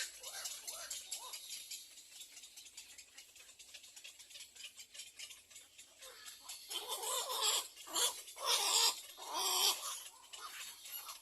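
Little egret chicks giving harsh, raspy begging calls: a run of several loud bursts over about three seconds in the second half.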